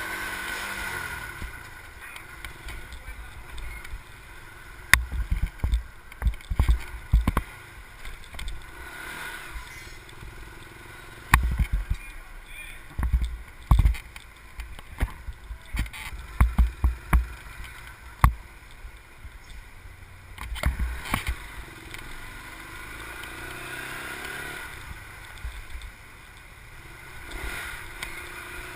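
A motor vehicle's engine running, with irregular gusts of wind buffeting the microphone.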